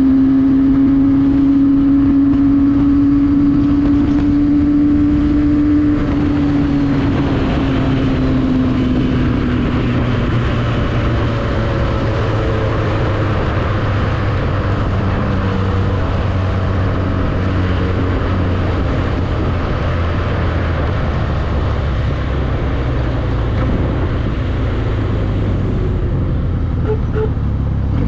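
Isuzu D-Max pickup driving, its engine note rising slowly for about six seconds and then easing off. After that comes a steady engine hum with road and tyre noise.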